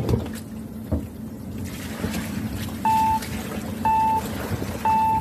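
Fishing boat's engine running with a steady low hum while a bucket of live fish and seawater is tipped into a plastic basket, splashing. From about three seconds in, a short electronic beep repeats about once a second.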